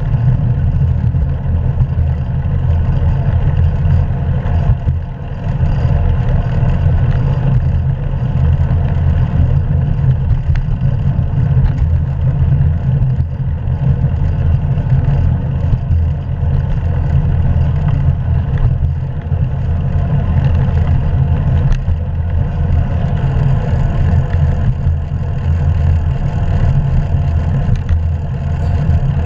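Steady low rumble of wind buffeting the microphone and tyre noise from a bicycle riding along, picked up by a GoPro action camera mounted on the moving bike.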